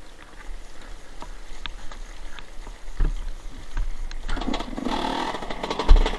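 Dirt bike engine under way with wind rumble on the helmet camera. The engine gets louder and buzzier about four seconds in, with a thump about three seconds in and a louder one near the end.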